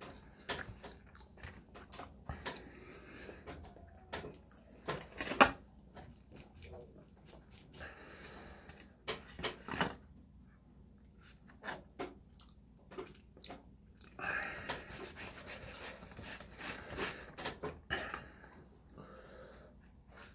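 Close-up chewing and mouth sounds of someone eating, with plastic fork and knife clicking and scraping against a styrofoam takeout container. The loudest is a sharp click about five seconds in.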